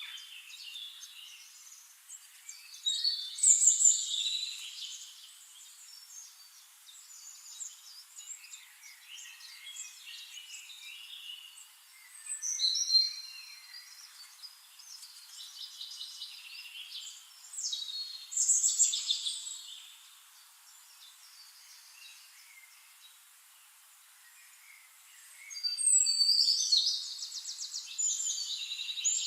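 Birds singing in a forest, in separate bursts of high song every several seconds, the loudest a fast trill near the end, over a faint steady hiss.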